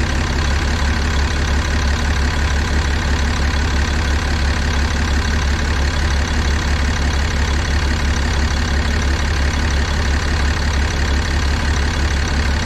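6.7 Cummins inline-six turbodiesel idling steadily with an even low pulse, during an injector kill test with injector number 1 cut out. The engine has 859,000 miles on factory injectors that are suspected of being bad.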